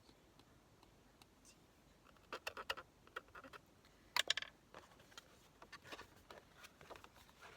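Paper and small craft tools being handled on a work table: a run of clicks and rustles about two seconds in, a sharper clatter just after four seconds, then lighter ticks.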